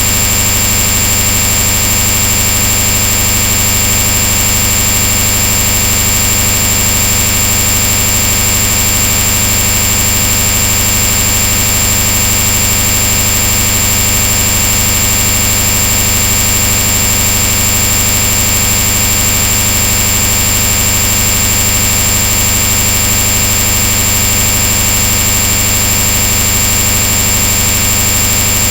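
Loud, unchanging hiss-like noise with a steady high-pitched whine over it, with no rhythm and no breaks.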